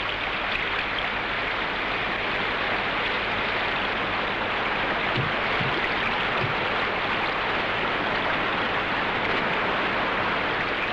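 White-water river rapids rushing steadily, a constant hiss of fast-moving water.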